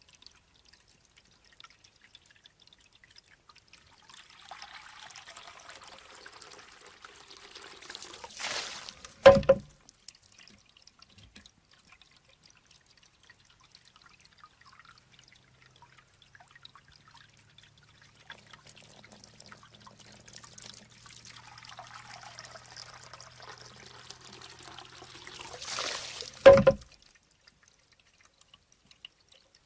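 Shishi odoshi (Japanese bamboo deer-scarer fountain) cycling twice. Each time, water trickles and pours for a few seconds, and then the bamboo tube strikes its stone with a single loud, hollow knock that rings briefly. The knocks come about 9 seconds in and again near the end.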